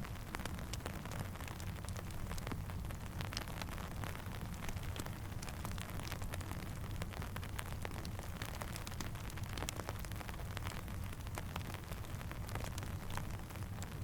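Steady rain mixed with a crackling campfire: a constant hiss and low rumble with many small, sharp pops and ticks scattered throughout.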